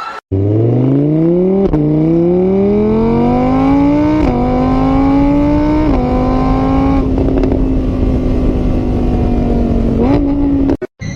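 A vehicle engine accelerating, its pitch climbing and then dropping slightly at each of several gear changes before holding fairly steady.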